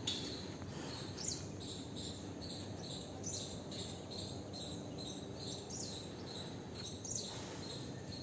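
Small birds chirping: short, high calls repeated throughout, a few of them quick falling notes, over a steady low rumble of background noise.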